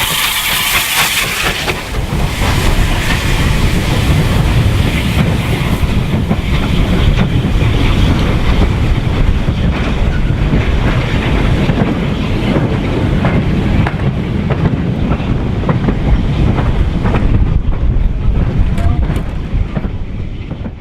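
Steam-hauled train on the move: a loud steam hiss for the first couple of seconds, then a heavy rumble of the train running with the clickety-clack of wheels over rail joints, fading near the end.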